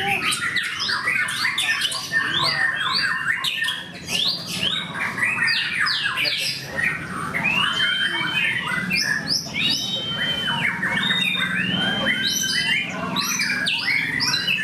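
Several white-rumped shamas (murai batu) singing at once: a dense tangle of overlapping rapid whistles, chatter and quick sweeping notes, with a few long, level whistles in the second half.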